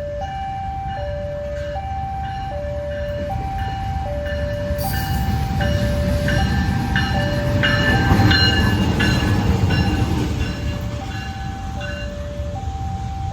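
Level-crossing warning alarm sounding two alternating tones, switching about every three quarters of a second, while a train rumbles past, loudest about eight seconds in.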